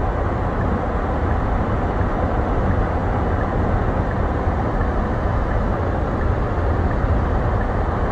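Steady road and engine noise of a moving car heard from inside the cabin, a constant low rumble with no changes.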